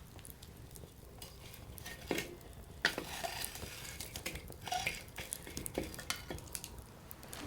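Wood fire in a Coleman Fire Disc crackling, with irregular sharp pops of burning firewood, the loudest about three seconds in, and a stretch of hissing just after it.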